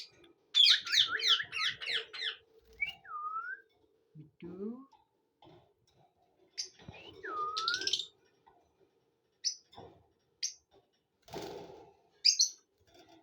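Pet lovebirds calling: a fast run of shrill high chirps at the start, then scattered single chirps, short squawks and two swooping whistles that dip and rise again.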